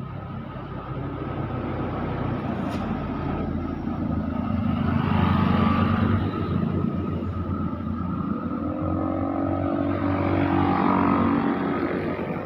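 Motor vehicles passing on the road, one passing louder about halfway through and another near the end, its engine note rising as it goes by.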